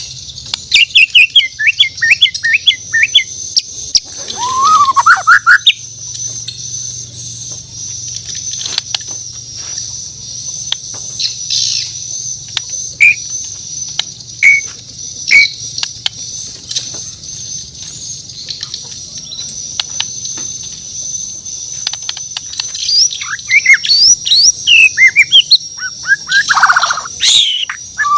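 White-rumped shama (murai batu, Bornean race) singing: quick runs of whistled, gliding notes for the first few seconds and again over the last six or so, with scattered single sharp notes and clicks in between. A steady high-pitched whine runs underneath.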